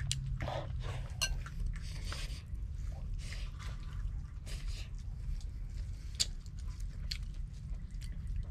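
Close-up chewing and crunching on crispy breaded deep-fried mullet, with scattered sharp crunchy bites, over a steady low hum.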